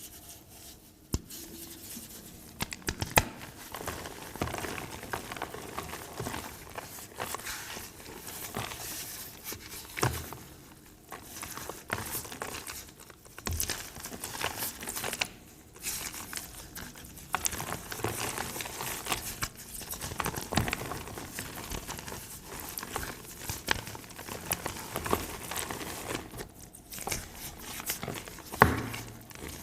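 Lumps of reformed gym chalk being crushed and crumbled: a dense run of dry crunching and crackling, with a few sharper, louder snaps and brief pauses between handfuls.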